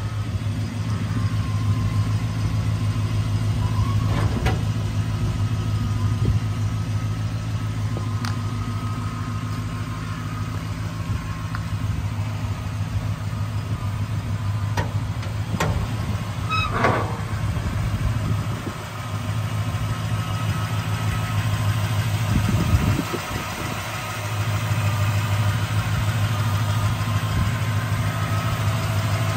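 1960 Chrysler Saratoga's V8 engine idling steadily, with a brief louder bump about three-quarters of the way through.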